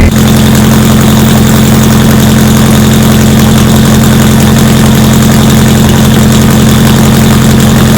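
Custom 1995 Honda Civic hatchback's swapped K-series inline-four, with its exhaust exiting the front fender, idling loud and steady right after start-up.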